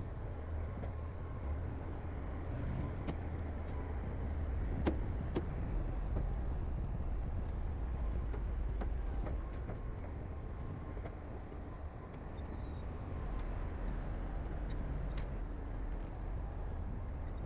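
Heavy diesel earthmoving machinery running steadily with a deep low rumble that swells a little twice, with a few sharp clicks or knocks scattered through it.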